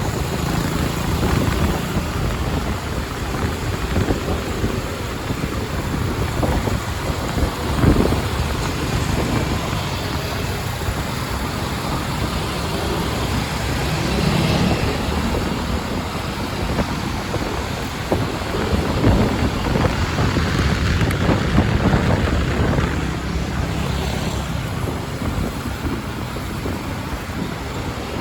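Wind buffeting the microphone on a moving motorbike, over the motorbike's engine and the surrounding road traffic, swelling and easing in gusts.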